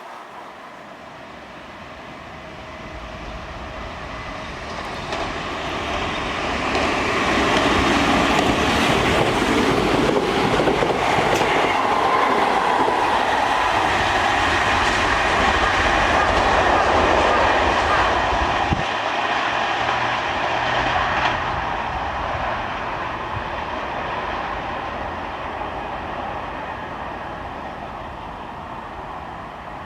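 Kintetsu electric train approaching, going by close with wheels clattering over the rail joints, then moving off. It is loudest for about ten seconds in the middle and fades slowly near the end.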